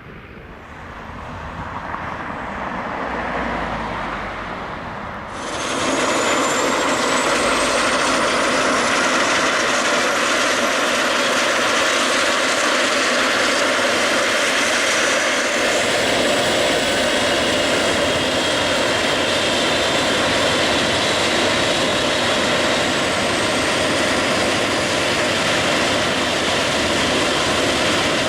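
Helicopter turbine engine running. It builds up over the first few seconds, gets much louder about five seconds in, then holds loud to the end, with a high whine slowly rising in pitch.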